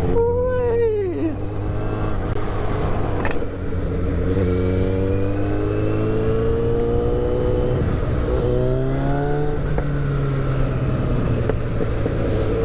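Motorcycle engine under way, sounding crispy: a quick rev up and back down at the start, then the revs climb steadily as the bike accelerates. Near the two-thirds mark the pitch drops at a gear change and climbs again.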